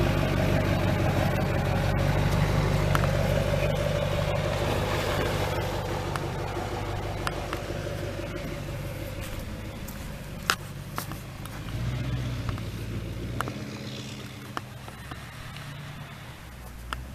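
2005 Chevrolet Silverado 2500HD's Duramax 6.6-litre V8 turbodiesel running as the truck drives, its steady hum growing gradually fainter over about ten seconds, with a few sharp clicks in the second half.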